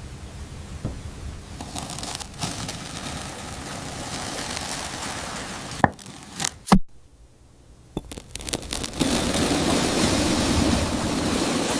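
Wax honeycomb being cut: crackling, scraping and tearing of the comb, with two sharp clicks about six and seven seconds in. After a brief lull, a louder stretch of steady crackling starts about nine seconds in.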